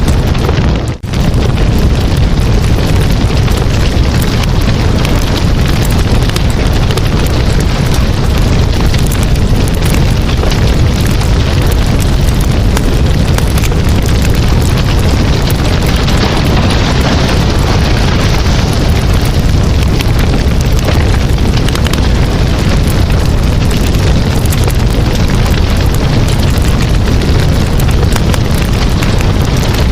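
Campfire burning: a steady, loud rush of flames thick with fine crackles and pops. The sound dips briefly about a second in.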